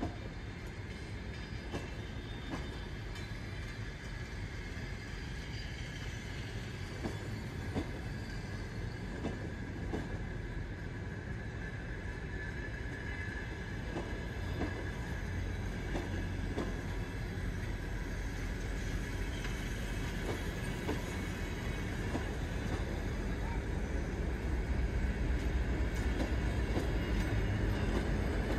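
Passenger train coaches rolling past at the platform: steady wheel-on-rail rolling noise with irregular clicks and a thin steady squeal. The low rumble grows louder near the end as the next car draws level.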